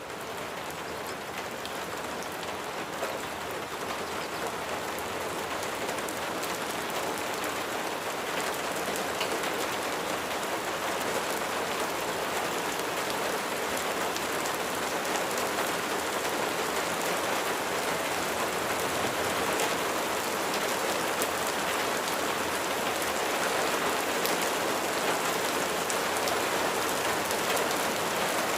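Steady rain falling on a surface: a dense, even patter with scattered sharper drop ticks. It fades in quickly at the start and grows slightly louder throughout.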